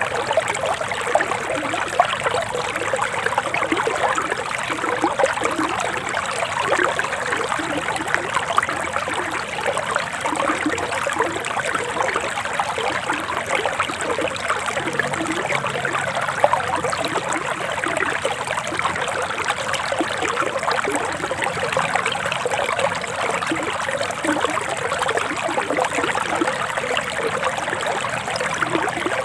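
Forest river water flowing steadily, a continuous trickling, splashing rush.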